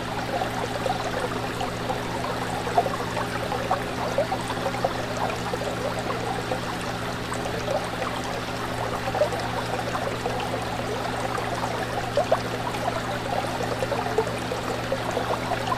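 Fish tank water bubbling and trickling continuously over a steady low hum, with small bubble pops now and then.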